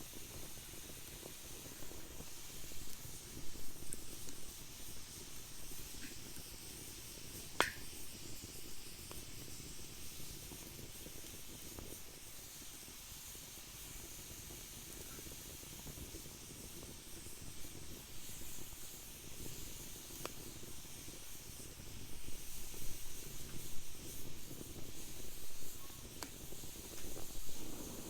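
Wood fire burning in a fire pit: a steady hiss with scattered crackles and pops, one sharp pop about a third of the way in.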